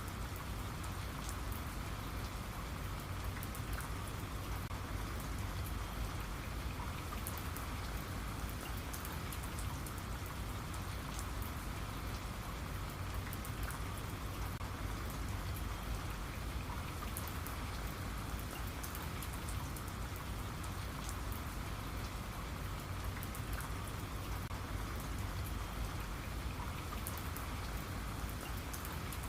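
Steady rain falling, with many small drops pattering on a surface and no thunder.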